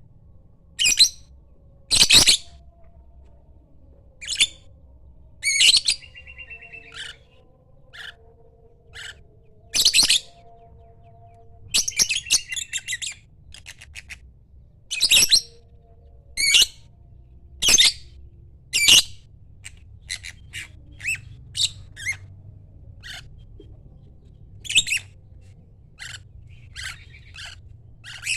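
Lovebird calling: loud, short, high-pitched calls repeated every second or two, with a few longer chattering stretches, then softer, quicker chirps in the last third.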